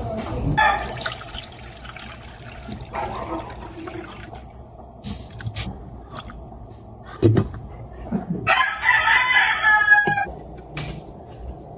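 A rooster crowing: one long call about eight and a half seconds in, lasting under two seconds, with a fainter call near the start. A few sharp knocks sound in between.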